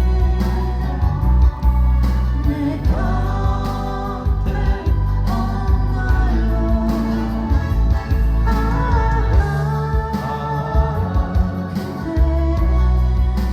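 A song being sung: voice singing over instrumental backing with a strong bass.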